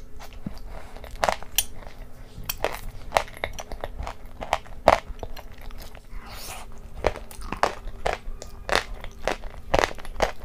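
Close-miked chewing of a mouthful of crunchy, creamy dessert: irregular sharp crunches, about two a second, as the pieces are bitten and broken between the teeth.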